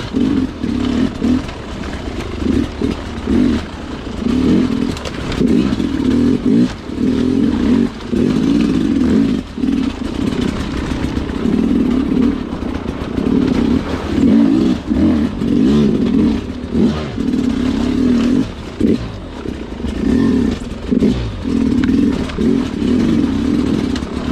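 Sherco two-stroke dirt bike engine ridden slowly over technical trail, the throttle opened and shut again and again so the engine note keeps swelling and falling back, with occasional knocks from the bike over the terrain.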